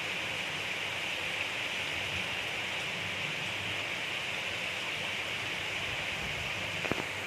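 Gentle rain falling steadily, an even hiss without thunder. One sharp tick stands out near the end.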